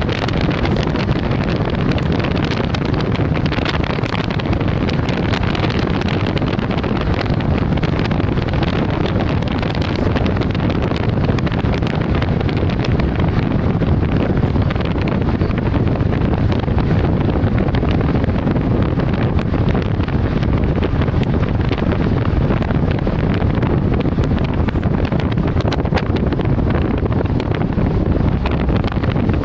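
Loud, steady storm noise of strong wind and rain, with many small sharp ticks scattered through it.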